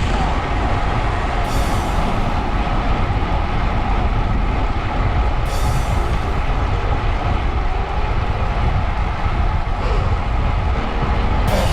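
A vehicle in motion: a steady engine rumble under rushing wind noise, with two brief louder hisses.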